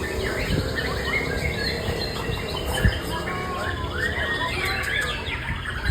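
White-rumped shama singing a fast, varied run of whistles and chirps. One sharp knock about halfway through.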